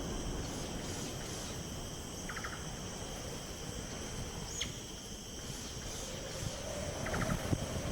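Steady, high-pitched insect chorus of the crickets or cicadas kind, with a few brief chirps and one quick falling call about halfway through.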